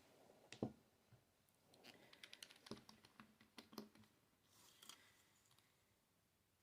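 Faint clicks and light taps from nail polish bottles, caps and brushes being handled, with a short cluster of quick ticks in the middle and a soft rustle near the end.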